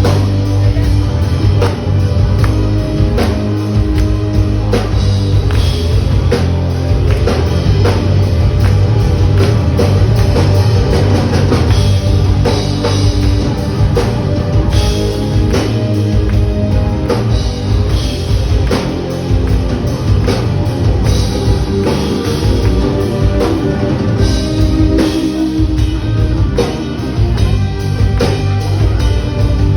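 A rock band playing live, an instrumental passage with no singing: drum kit keeping a steady beat under heavy bass and guitar.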